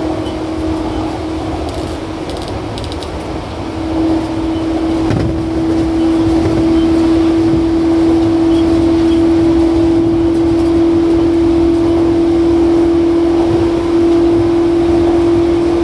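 Running noise inside an E235-1000 series electric commuter train at speed: a rumble of wheels on rail under a steady hum, which grows louder about four seconds in and then holds at one pitch.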